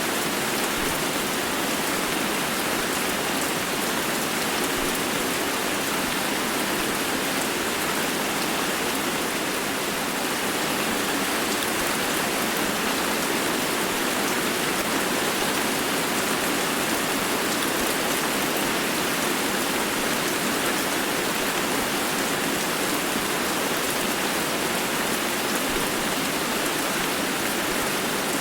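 Steady rain falling on hard surfaces, a dense, even hiss of drops.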